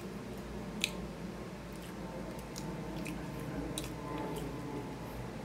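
A person chewing a mouthful of roast chicken, with scattered wet mouth clicks and smacks and one sharper click about a second in, over a steady low hum.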